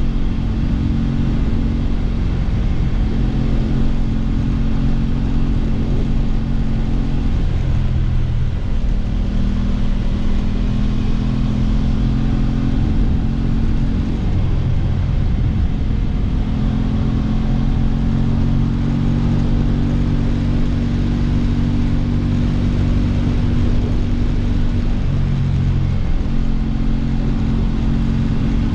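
Aprilia RS 660's parallel-twin engine running under way, its low note holding fairly steady, with changes in pitch about a third of the way in, around halfway and near the end as the rider works the throttle and gears.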